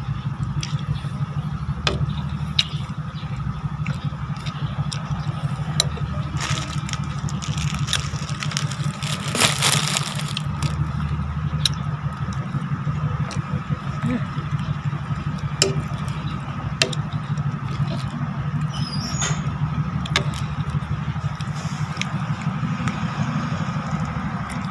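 Wind buffeting the microphone: a steady, fluttering low rumble, with scattered sharp clicks and taps.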